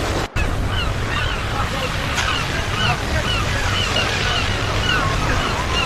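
Ocean surf washing steadily, with a flock of birds giving many short, overlapping calls over it. The sound cuts out for an instant about a third of a second in.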